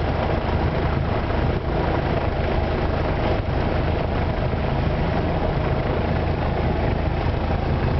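Steady drone of a single-engine light aircraft's piston engine and propeller.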